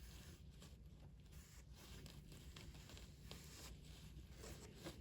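Near silence, with faint scraping and rustling handling sounds and a few soft scattered ticks.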